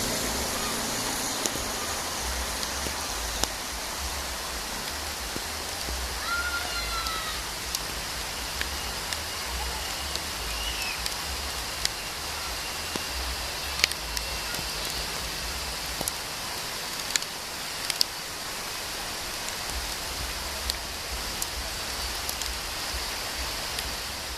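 Steady hiss of falling rain with scattered sharp drop clicks and a brief chirp about six seconds in.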